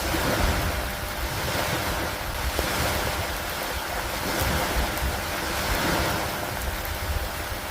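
Rainstorm ambience: a steady hiss of rain with wind over a low rumble, swelling and easing every couple of seconds.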